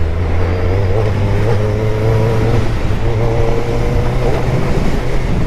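Suzuki Hayabusa inline-four engine running steadily under way, with wind rushing past.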